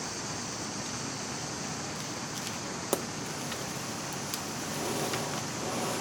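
A few faint ticks and one sharp pop about three seconds in, over a steady hiss: a cracked CFL grow-light bulb being switched on.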